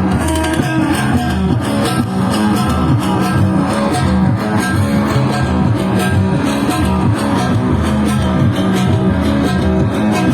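Loud instrumental band music led by guitar, with a moving bass line under it.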